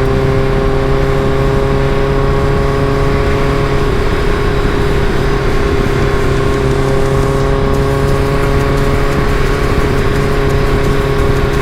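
Caterham Super Seven engine running at a steady speed, a constant drone that hardly rises or falls in pitch, with road and wind noise underneath.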